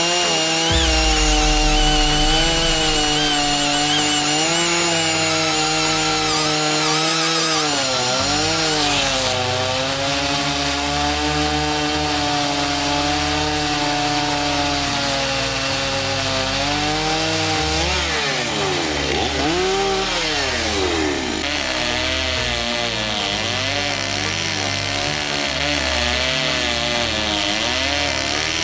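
Gas chainsaw cutting into a wooden stump during chainsaw carving, its engine pitch rising and falling as the chain bites and eases off. About two thirds of the way through it revs up and down sharply several times.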